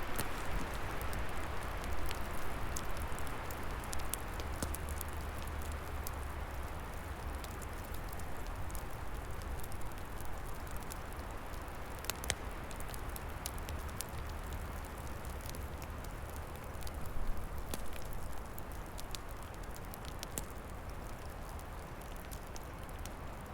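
Open wood fire crackling, with scattered sharp pops over a steady rushing hiss of wind in the trees.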